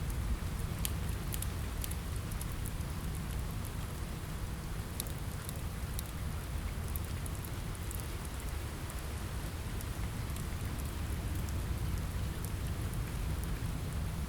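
Steady rain with a deep, even low rumble, mixed with scattered sharp ticks and pops from a crackling wood fire.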